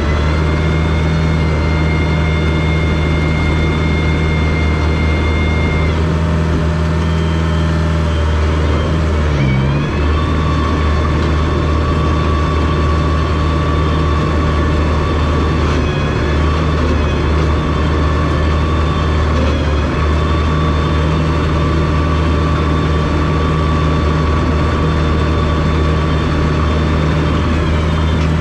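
Diesel engine of a small rubber-tracked Komatsu bulldozer running steadily under working load, with a high whine over it that changes pitch several times, stepping and gliding up around ten seconds in and sliding down near the end as the machine pushes and changes direction.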